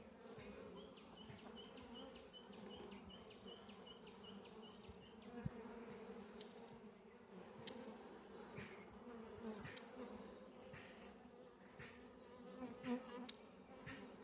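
Honeybees buzzing in a steady, faint hum around an opened hive. During the first few seconds a run of short high chirps repeats about three times a second, and small clicks come here and there.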